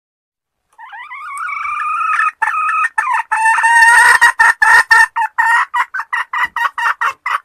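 Junglefowl lure call: a drawn-out pitched note starting about a second in, then a run of short, loud clucking notes at about three to four a second, stopping abruptly near the end.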